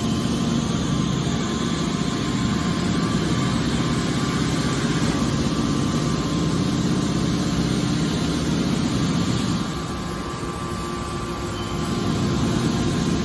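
Car scrap baler machinery running with a steady drone that dips slightly for a couple of seconds in the latter half.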